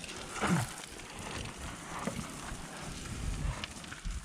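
A person's breathing and short low grunts, with scuffing and rustling of clothes and gear against rock as he moves through a tight mine passage.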